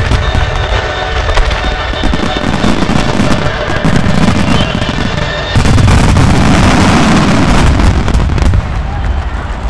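Massed aerial firework shells bursting in a dense, continuous barrage of bangs and crackling. It jumps louder a little past halfway and eases off near the end.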